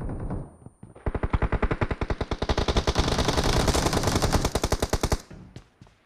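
Video-game automatic gunfire: a long sustained burst of rapid, evenly spaced shots starting about a second in and stopping shortly after five seconds, after a few scattered shots at the start.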